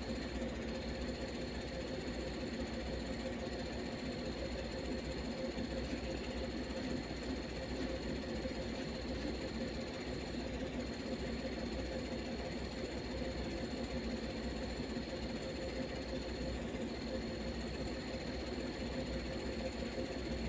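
A heavy vehicle's engine idling steadily, with a thin high whine held over it.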